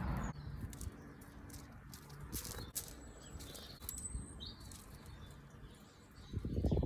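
Small garden birds at a bird table, blue tits and great tits, giving a few short high chirps among scattered light clicks and taps. Near the end a louder low rumbling noise swells up.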